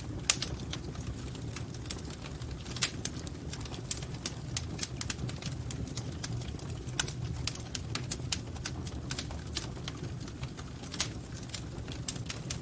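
Wood fire crackling in a fireplace: irregular sharp snaps and pops over a steady low rumble, with one louder pop just after the start.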